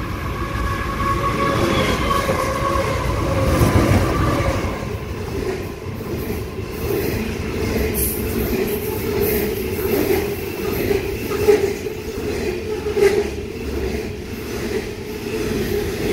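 Diesel-hauled freight train passing at speed: the locomotive's engine note rises to a heavy rumble as it goes by about four seconds in, its pitch falling slightly, then the covered hopper wagons roll past with a steady rumble and repeated sharp wheel clacks over the rail joints.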